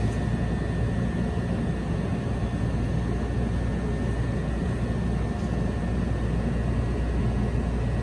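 Steady low hum and rumble of a CTA Orange Line rail car standing at the platform, with a faint steady whine over it.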